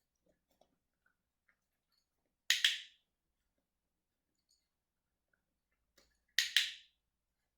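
Dog-training clicker clicked twice, about four seconds apart, each time a sharp double click of the press and the release: the click being paired with food to load it.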